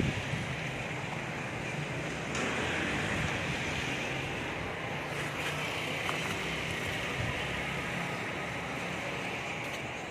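Strong wind blowing steadily across the microphone, a continuous rushing hiss.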